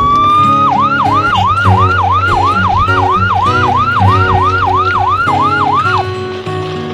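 A siren starts with a slowly rising tone, then switches to fast rising-and-falling sweeps, about two and a half a second, which stop about six seconds in. Background music plays underneath.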